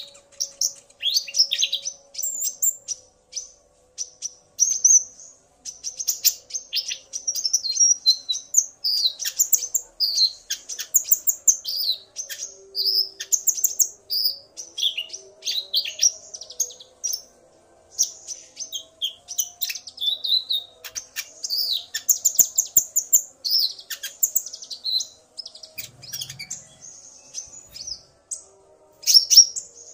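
Brown-throated sunbird (konin) singing: a male's rapid run of high, sharp chirps and twittering phrases, with brief pauses, excited by a female's calls.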